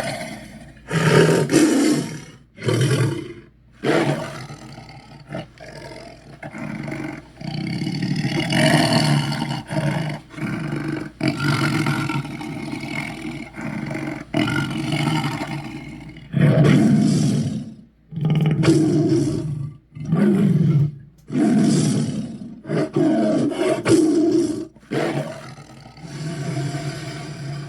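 Kaiju-dragon monster roar sound effects: a run of rough, loud roars and growls. A long drawn-out roar runs through the first half, then comes a string of shorter roars with brief gaps between them.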